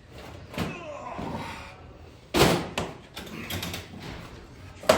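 Heavy metal clunk about two and a half seconds in, with smaller knocks and clicks around it, from the hand crank and raising screw of a large vertical mill's table being cranked upward.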